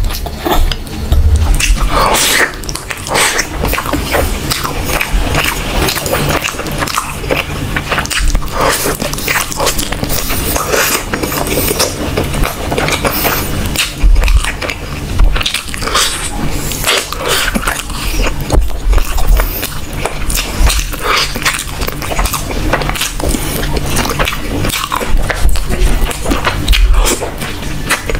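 Loud, irregular chewing and biting as chicken leg meat is gnawed off the bone by mouth, with wet crackles and clicks throughout.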